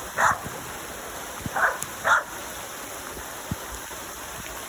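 A dog giving three short barks in the first two seconds, over a steady hiss.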